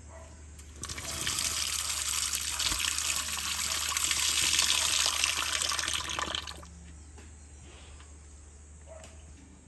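Running water: a steady rush that starts about a second in and stops abruptly about six and a half seconds in.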